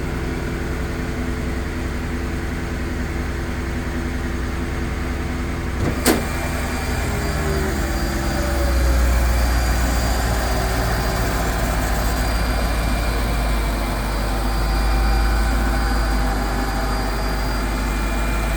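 1999 Mercedes engine idling steadily on a cold start. There is one sharp click about six seconds in, and the low hum swells slightly twice, near nine and fifteen seconds.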